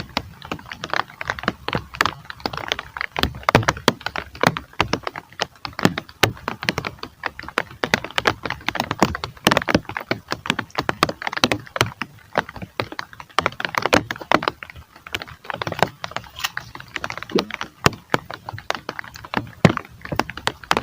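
Heavy rain, with drops landing on a hard surface close to the microphone as a dense, irregular patter of sharp taps.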